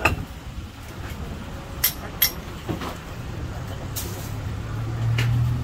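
Motor vehicle engine running, with a steady low rumble that grows louder near the end, and a few sharp clicks.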